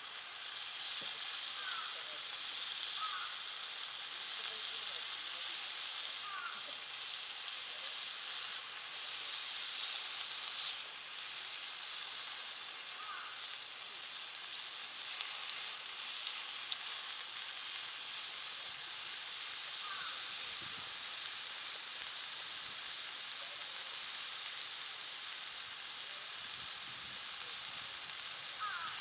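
Meat sizzling steadily on a hot cast-iron jingisukan grill pan over a wood fire, with a few faint short chirps now and then.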